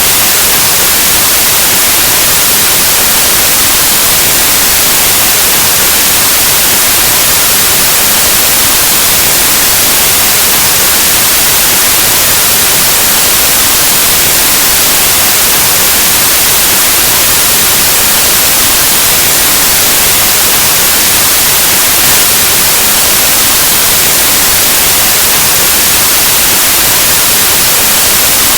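Steady, loud white noise, a continuous static hiss across the whole range of hearing with no change or break.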